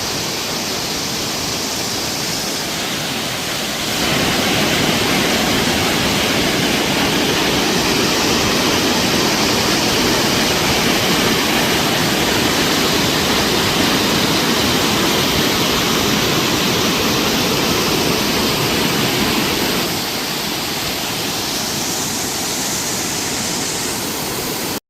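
Waterfall rushing with a steady roar of falling water. It grows louder about four seconds in and drops back a little near the end.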